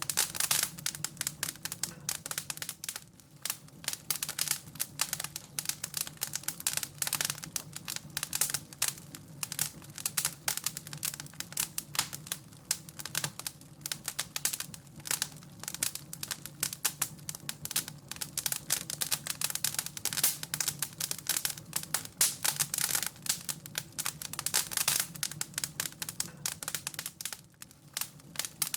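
Wood fire crackling in a fireplace: dense, irregular pops and snaps, with a faint, steady low hum beneath.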